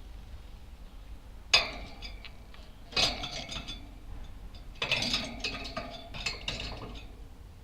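Clinking and rattling of small hard objects in three bursts: a sharp clink about a second and a half in, then two longer runs of clattering.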